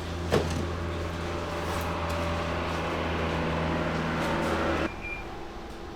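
Microwave oven running with a steady hum, then shutting off abruptly about five seconds in, followed by a short beep as it finishes.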